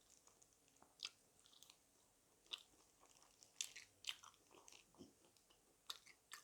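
Close-up eating of crispy KFC garlic bread fried chicken: faint chewing broken by half a dozen sharp crunches at irregular intervals as the crisp coating is bitten and chewed.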